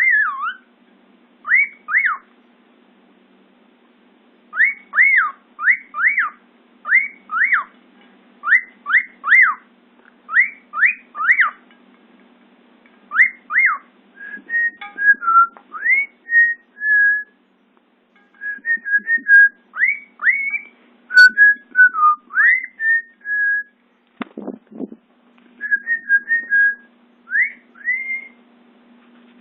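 Male cockatiel whistling its courtship song: quick whistles that sweep up and down, often in pairs, then a warbled run of shorter notes broken by brief pauses.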